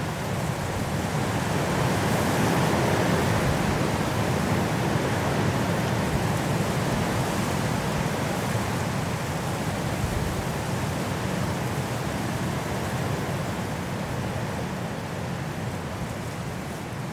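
Strong wind blowing through forest trees in a mountain snowstorm, a steady rushing that swells a couple of seconds in and slowly eases off.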